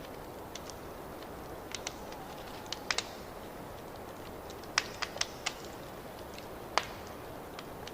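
Wood fire crackling in a fireplace: a steady low rush of flames with scattered sharp pops, a cluster of louder snaps about three seconds in, another around five seconds, and a single loud pop near seven seconds.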